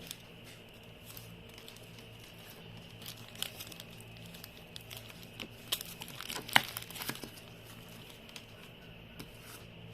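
Hands kneading and mixing glitter into freshly made slime: scattered small sticky clicks and crackles, one sharper snap about six and a half seconds in.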